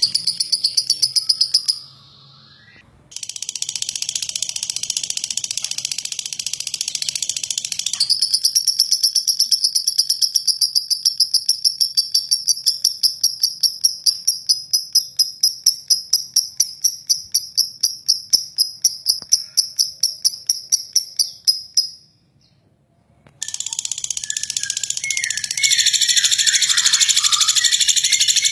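Lovebird singing a long, harsh rattling trill ('ngeklek'): rapid high-pitched pulses in long unbroken runs, stopping briefly twice. Shorter chirping notes join in near the end.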